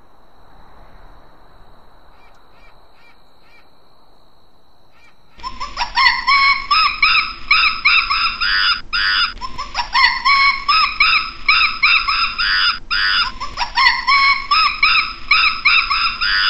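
An animal calling loudly in rapid series of harsh notes, bouts starting about every four seconds, beginning about five seconds in after a faint steady high tone.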